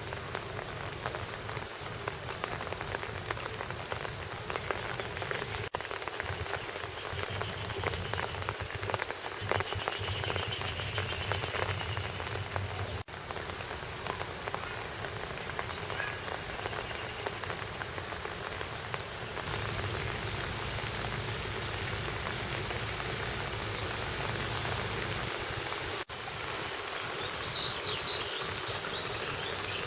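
Steady patter of falling water, with a few short, high bird chirps near the end.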